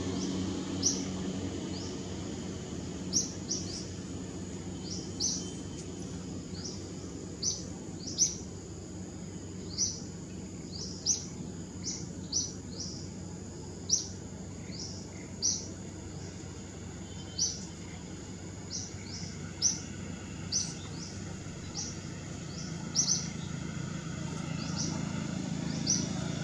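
A bird repeating a short, sharp, high chirp about once a second, irregularly spaced, over a steady low background hum. A low rumble builds near the end.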